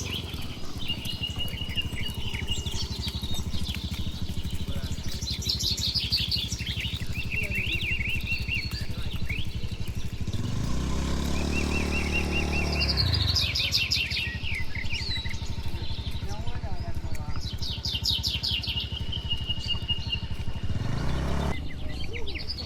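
Small birds chirping and trilling over the steady low rumble of an idling engine. About halfway through, a low drawn-out sound rises and falls in pitch for about three seconds.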